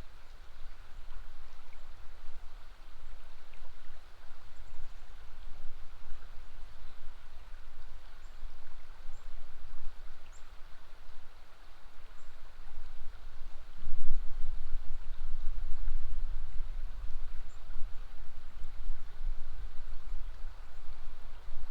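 River water flowing steadily, with a low rumble that swells about two-thirds of the way through. Faint, short, high bird chirps come now and then.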